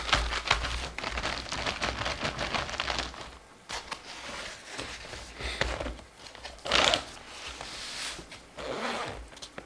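Scratching and rustling on coloring-book paper: rapid scratchy strokes for the first three seconds, then scattered short scrapes with pauses between, one louder about seven seconds in.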